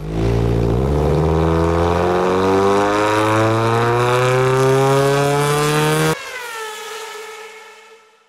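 Subaru BRZ's FA20 flat-four engine revving up steadily under full throttle in one long power-check pull for about six seconds. Then the throttle shuts suddenly and the revs fall away, fading out.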